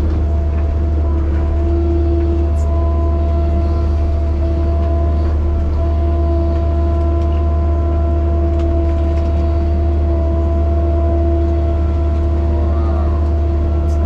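Heavy land-clearing machine's engine running steadily at constant speed: a deep hum with a steady whine over it, and a short rising whine near the end.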